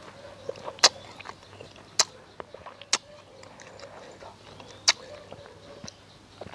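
Mouth sounds of a person chewing small, very sour mak mao (bignay) berries: wet smacks and clicks of the lips and tongue, four sharp ones about a second or two apart, with softer chewing between.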